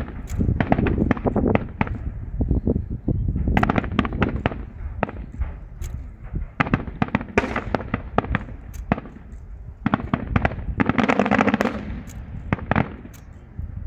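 Aerial fireworks display: shells bursting in a dense barrage of sharp bangs and crackles, many in quick, overlapping succession.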